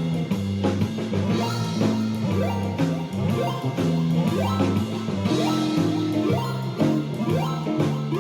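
Blues backing track with drums and bass from the Thumbjam app, with a square-wave synth lead ('square clean' sound) played over it in a higher octave.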